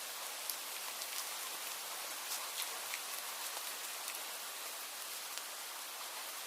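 Steady rain falling, an even hiss with many individual drops ticking at irregular moments.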